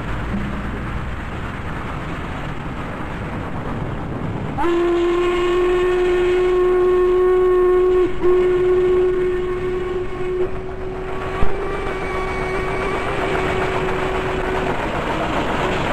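Steam locomotive whistle blowing one long blast, starting about four and a half seconds in and held to the end with a brief falter partway through, over a steady rushing noise of the train.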